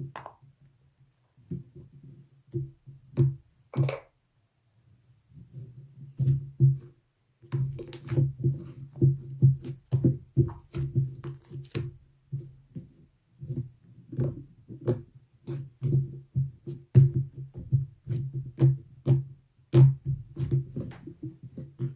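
Slime being squished and pressed by hand, making irregular sticky pops and clicks with short pauses between handfuls.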